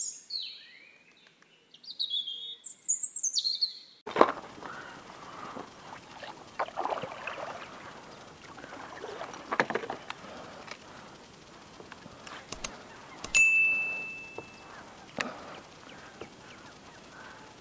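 Birds chirping in quick, falling calls for the first four seconds. Then a steady outdoor hiss on open water with scattered faint sounds. About thirteen seconds in, a click is followed by a steady electronic ding that holds for over a second.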